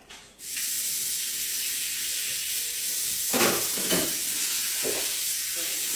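A steady hiss cuts in abruptly about half a second in and runs on evenly, with three short louder sounds near the middle.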